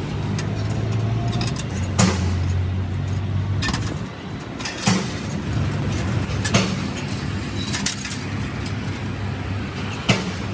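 A motor or engine running with a steady low hum, with about six sharp metallic clinks and knocks scattered over it.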